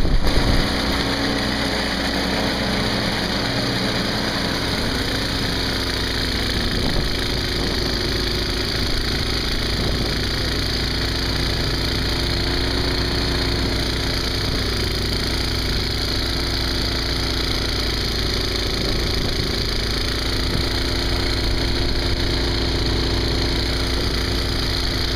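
An engine running steadily at a constant speed, its pitch unchanging, under a steady hiss.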